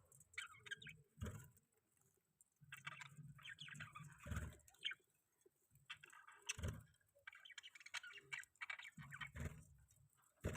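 Budgerigars chirping faintly in bursts of quick, broken warbling chatter with short pauses between. A few dull low thumps are scattered among the calls.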